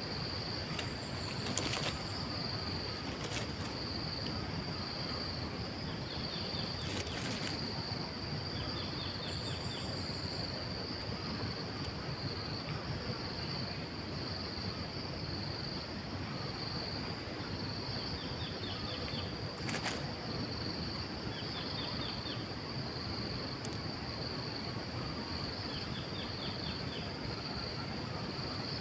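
Outdoor ambience: a steady, high-pitched pulsing drone throughout, with short, quick series of chirps about five times and a few brief sharp knocks or flutters.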